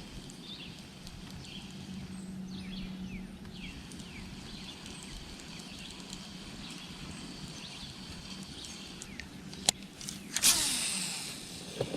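Outdoor river ambience with small birds chirping in short falling calls over a steady low hum. A sharp click comes a little before the end, followed about half a second later by a short, loud rush of noise.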